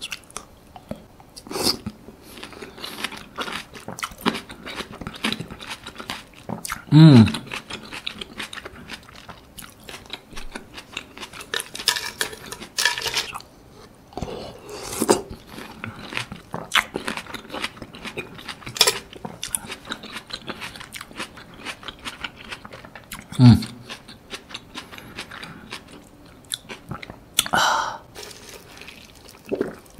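Close-miked wet chewing and biting of soft canned longan fruit eaten off a spoon, with many small mouth clicks and smacks. Twice a short, louder low hum of the voice breaks in, about a third of the way through and again near the end.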